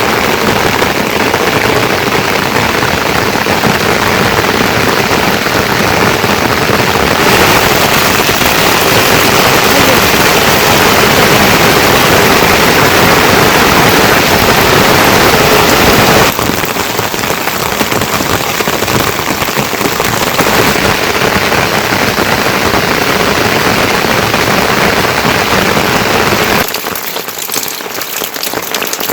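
Heavy rain pouring down as a steady, loud downpour. It grows louder about a quarter of the way in, eases about halfway through, and drops off sharply near the end.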